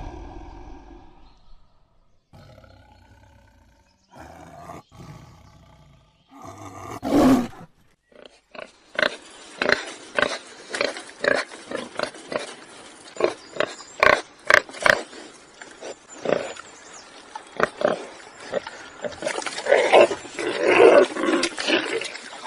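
A big cat's roar fading out, then, after a few quieter fragments, a long run of short calls repeated a fraction of a second apart, swelling near the end.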